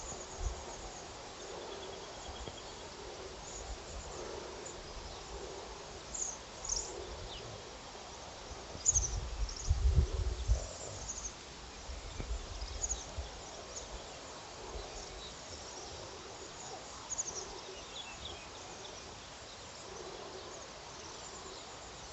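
Wild birds chirping and singing, many short high calls scattered throughout over a steady background hiss. A few low thumps come about nine to eleven seconds in.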